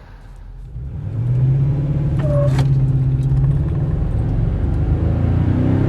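Toyota Tundra's naturally aspirated 5.7-litre V8 accelerating hard from a standing start on a 0-60 run. It is running its first custom tune. The engine note comes in about a second in and rises slowly in pitch as the truck gathers speed.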